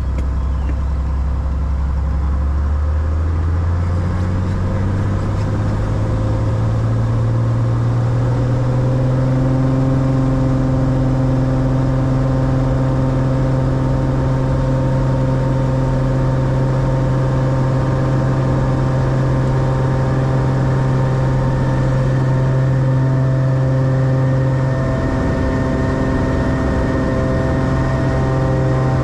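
Single-engine Cessna piston engine and propeller throttling up: the pitch climbs for several seconds as power comes in, then holds steady at full power, as for a takeoff run and climb.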